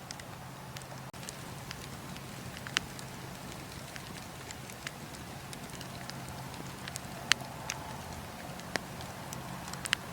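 Campfire of burning wood crackling: irregular sharp snaps and pops, a few of them much louder, over a steady low rumble and hiss.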